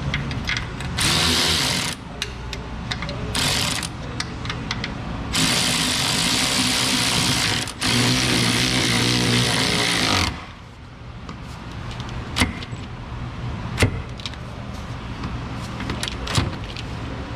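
Power tool running in four bursts, driving in the bolts of a Jeep Wrangler's suspension control arm. A few sharp metallic clicks follow in the quieter second half.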